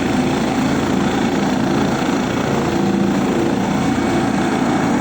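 Helicopter engine and rotor running with a loud, steady drone.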